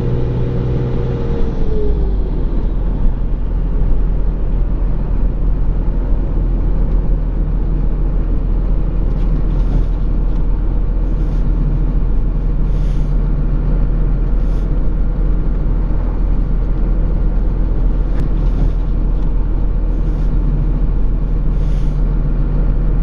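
Dodge pickup's Cummins inline-six turbo diesel under load. Its whine drops in pitch about a second or two in as the throttle is let off, and then it carries on as a steady low rumble.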